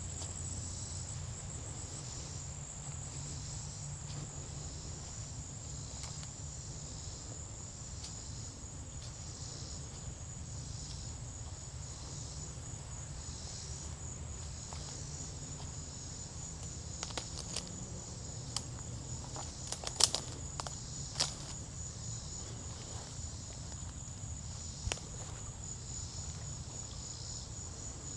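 A steady high insect trill that pulses finely and never stops, with slow, soft footsteps along a forest trail. A few sharp clicks or snaps come close together about two-thirds of the way in.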